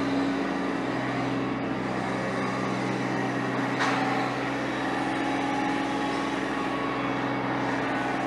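A vehicle engine running steadily at a constant speed, with a single short clank about four seconds in.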